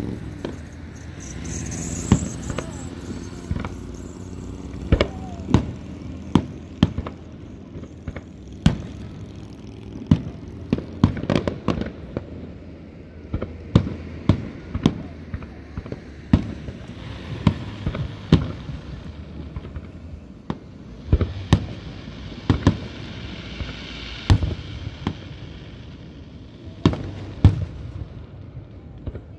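Aerial fireworks display: shells bursting in an irregular run of sharp bangs, sometimes several a second. There are stretches of hissing crackle between the bangs.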